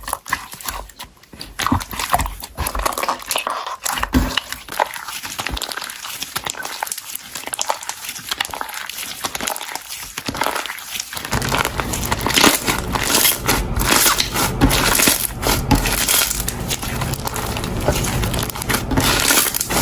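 Hands squishing and poking slime, its trapped air bubbles crackling and popping in quick irregular clicks. About eleven seconds in the crackling turns denser and steadier.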